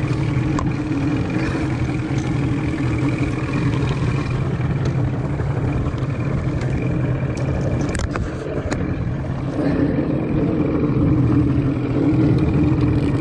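Boat motor running steadily under way, with a few light clicks and knocks about two-thirds of the way through.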